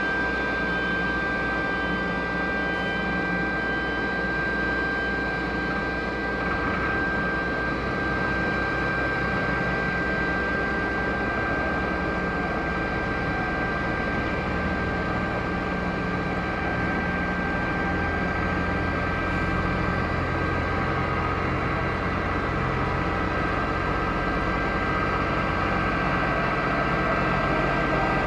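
Boeing 737-800's CFM56 turbofan engines running with a steady jet whine, a strong high tone held over a rushing noise, unchanging in pitch.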